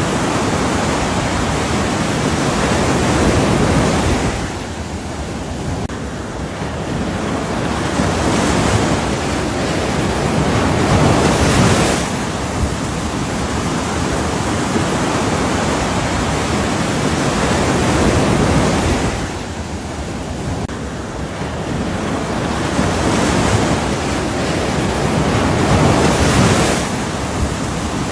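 Ocean surf: a continuous rush of waves that swells into louder surges and eases back in slow cycles, dipping twice.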